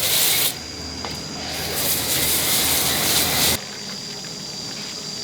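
Loud hissing blast of air or spray, cut off about half a second in and running again for about two seconds, with a motor humming underneath; after it stops, a quieter steady hum goes on.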